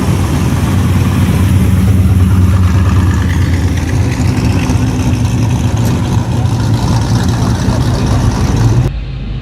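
A car engine running at a steady idle with a deep, even tone. It cuts off abruptly near the end to a quieter background.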